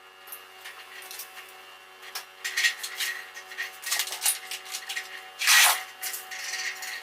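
Hand tool scraping and rubbing on engine parts in irregular strokes, the loudest scrape about five and a half seconds in, over a faint steady hum.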